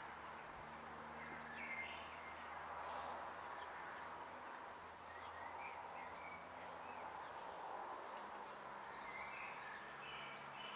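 Faint, scattered short bird chirps over a steady background hiss, with a low steady hum underneath.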